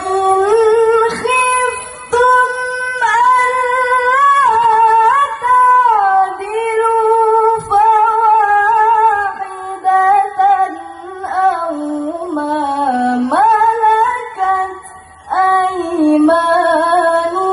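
A woman singing a melody, holding long notes and sliding between pitches, with a few short breaths between phrases.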